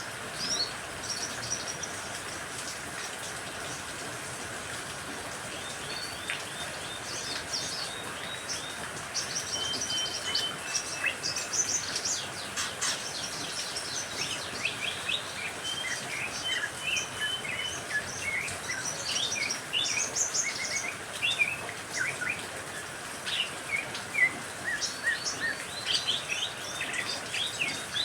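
Songbirds chirping and trilling in quick short high notes, sparse at first and busier from about a third of the way in, over a steady hiss of rain.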